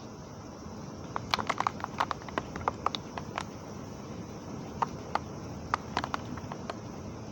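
Heavy rain falling steadily, with clusters of sharp, irregular taps of drops striking a hard surface, one cluster starting about a second in and another around five seconds in.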